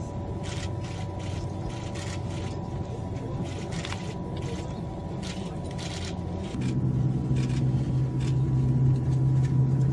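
Running noise of a high-speed train heard from inside the passenger cabin: a steady rumble with a faint steady tone and short hissing surges every second or so. About two-thirds in it grows louder and a low steady hum comes in.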